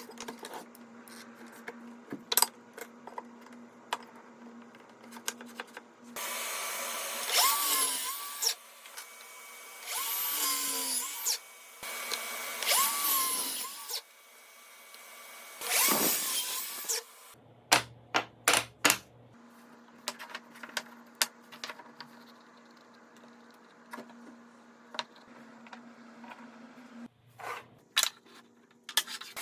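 Power drill run in four short bursts of one to two seconds, its motor pitch sweeping as it starts and stops each time, with clicks and knocks in between.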